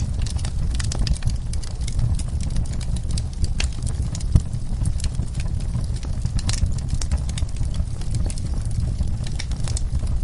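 Wood fire burning in a fireplace: irregular crackles and pops over a steady low rumble of the flames, with one louder pop about four seconds in.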